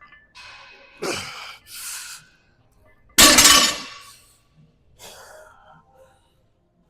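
A person breathing hard with a series of forceful, noisy exhales and gasps, as from exertion during a lifting set; the loudest breath comes suddenly about three seconds in.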